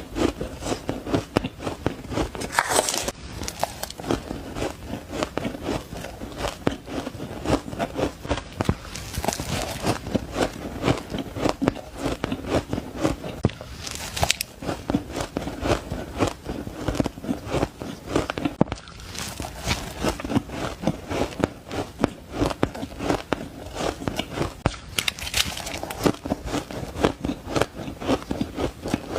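Shaved ice being bitten and chewed close to the microphone: dense, rapid crunching and crackling, with a louder fresh bite about every five to six seconds.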